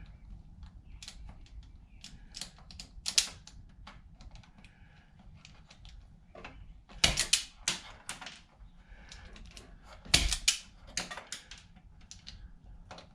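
Hand wire strippers clicking and snapping as insulation is stripped off wire ends, irregular clicks with the loudest clusters about three, seven and ten seconds in.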